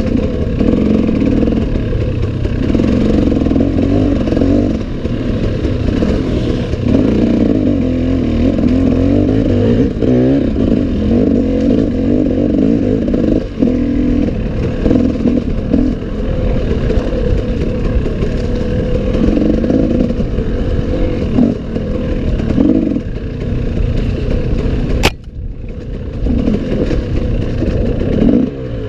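Enduro dirt bike engine running hard and continuously, its pitch rising and falling with the throttle, along with clatter from the rough trail. Near the end comes a single sharp click.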